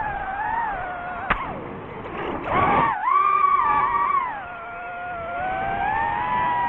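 DJI FPV drone's motors and propellers whining, the pitch rising and falling as the throttle changes. A sharp click comes about a second in, and a louder, rougher burst follows a second or so later.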